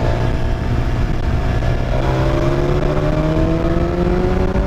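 BMW S1000 XR's inline-four engine pulling under way, its note climbing slowly in pitch through the second half as the bike accelerates.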